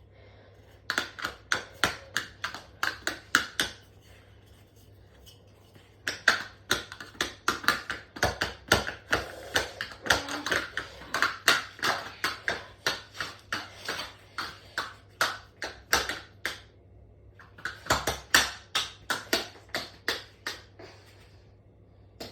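Tumble dryer running hard and shaking itself apart, with rapid, evenly spaced knocking and clattering, about three knocks a second, in three bouts over a steady low hum.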